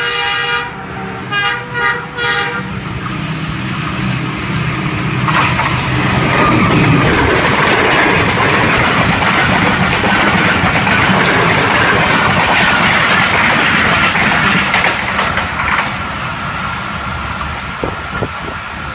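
Pakistan Railways diesel locomotive 6414 sounding its loud horn, a long blast that ends just after the start, then a few short toots, before the locomotive and its passenger coaches pass close by at speed. The engine's drone gives way to the steady rush and rattle of the coaches on the rails, easing off near the end.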